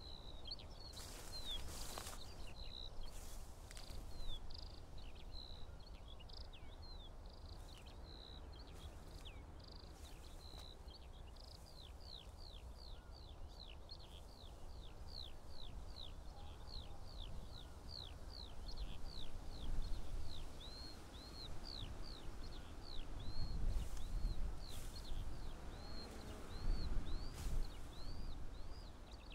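A songbird singing a long, unbroken run of short down-slurred whistled notes, about two a second. Under it runs a low rumbling noise that swells in the last third.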